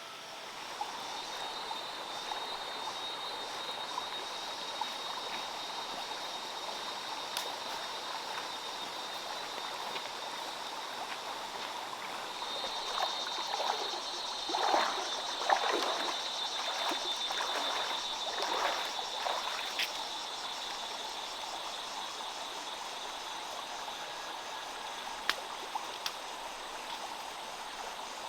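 Water running over the stones of a handmade waterfall, making a steady rushing trickle. It grows louder and splashier for several seconds about halfway through.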